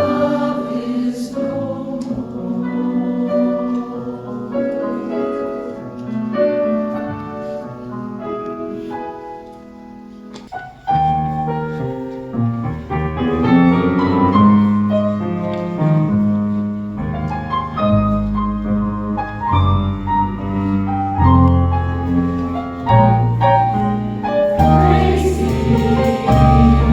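Women's chorus singing a song with accompaniment. It turns soft about ten seconds in, then comes back fuller and louder with a strong bass line.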